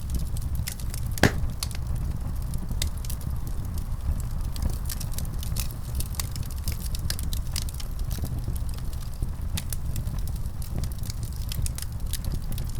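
Wood fire in a fireplace crackling, with frequent small sharp pops over a steady low rumble, and one louder pop about a second in.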